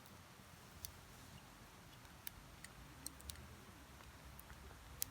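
Wood campfire crackling softly: a faint hiss with a few scattered sharp pops.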